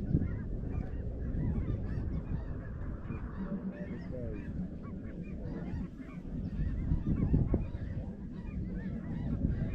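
A large flock of snow geese calling, many overlapping calls at once, over a low rumble.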